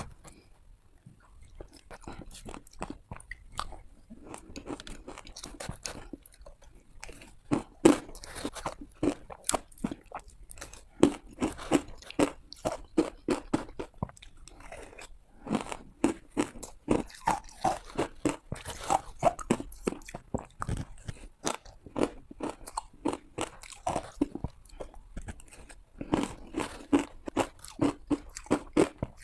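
A person biting into and chewing ice: bouts of sharp, rapid crunches with short pauses between them.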